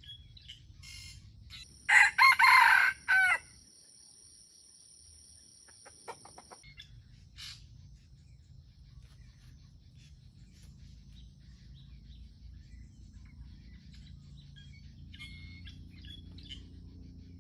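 A junglefowl rooster crows once, about two seconds in. The crow lasts about a second and a half and ends in a short final note. Small birds chirp faintly around it.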